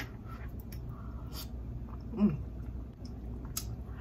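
Close-up eating sounds: a person chewing a mouthful of cheesy grits, with small wet mouth clicks and smacks. About two seconds in there is a brief hum that rises and falls in pitch.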